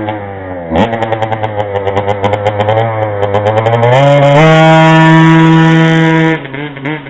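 A 2008 KTM 50cc two-stroke single-cylinder pit bike engine revving under riding. There is a quick throttle blip about a second in, then wavering revs. Around four seconds in it climbs to high revs and holds there for about two seconds, then backs off near the end.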